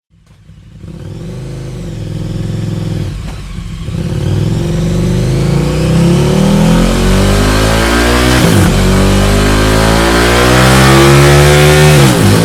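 KTM 1290 Super Duke's V-twin engine accelerating hard through the gears, its exhaust note rising steadily in pitch and growing louder. The pitch drops sharply at an upshift about two-thirds of the way through, then climbs again to another shift near the end.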